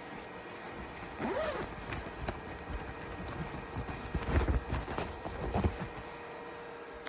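Handling noises: a short zip-like sound about a second in, then a run of uneven knocks and rustles over a steady faint hum.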